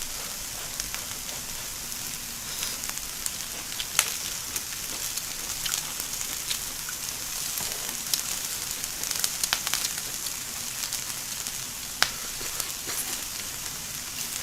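Shrimp and vegetables sizzling on an electric tabletop grill: a steady hiss with scattered sharp pops and clicks, the loudest about four seconds in and near the end.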